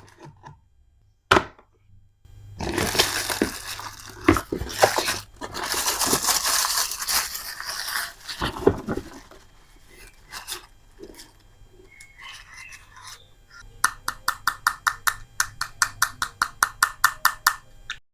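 Dashcam packaging being unpacked by hand: a sharp click, then a long stretch of rustling with knocks, then a quick regular run of clicks near the end.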